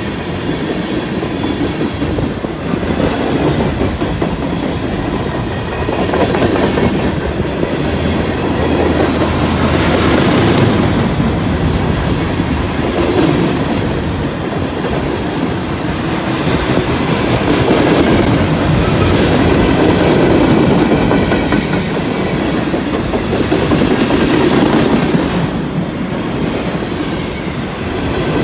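Freight train cars rolling past close by: a steady, loud rumble of steel wheels on the rails that swells and eases a little as the cars go by.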